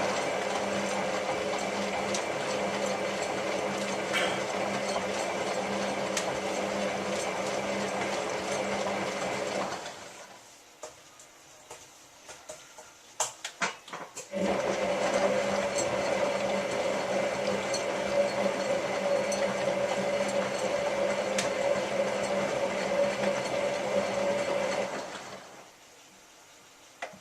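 Hotpoint 9534A washing machine's drum motor running in the main wash: two tumbles of about ten seconds each with a steady hum, and a pause of about four seconds between them with a few light clicks.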